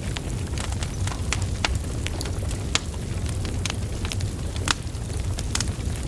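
Wood fire burning: a steady low rumble of flames with sharp, irregular crackles and pops from the burning logs, the loudest a little under 3 seconds in and near 5 seconds in.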